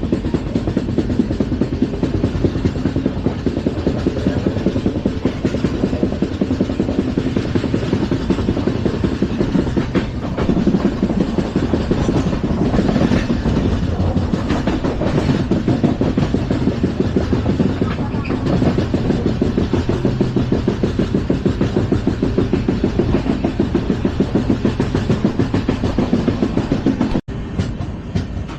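LHB passenger coach running at speed over the track, heard from on board: a steady loud rumble with a fast, dense rattle of wheels on rail. It cuts out for an instant near the end, then carries on a little quieter.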